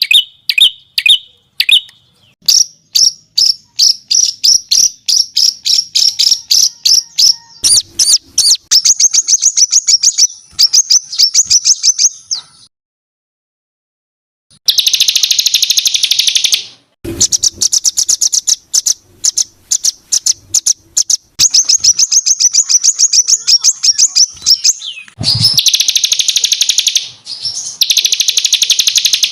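Songbird song of the kind used as masteran tutor material for competition birds: loud trains of sharp, high chirps repeated several times a second. A silent gap of about two seconds falls near the middle, after which the notes come as denser, faster trills.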